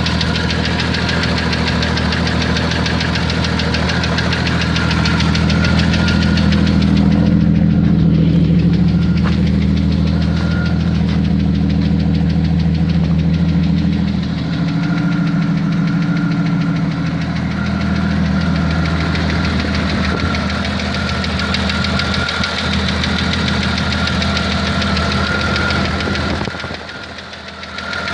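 Jeep Cherokee XJ's 4.0-litre straight-six running with a rapid knock, which the owner cannot place between a loose flexplate bolt and piston slap. It grows louder for several seconds a quarter of the way in, and briefly drops in level near the end.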